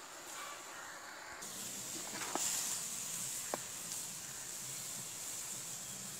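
Red spinach sizzling and hissing in a hot wok; the sizzle gets suddenly louder about a second and a half in and stays loud. There are two sharp knocks of the wooden spatula against the pan.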